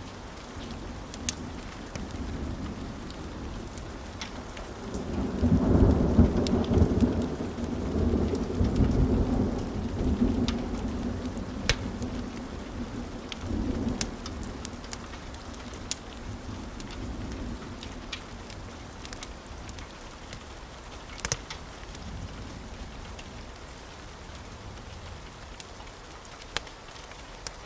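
Steady rain with a long roll of thunder that swells about five seconds in, rumbles for several seconds and slowly fades. Scattered sharp crackles from a wood fire pop through the rain.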